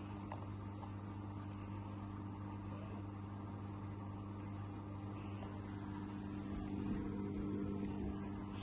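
Samsung washing machine running with a steady low hum, the low rumble swelling a little about three quarters of the way through.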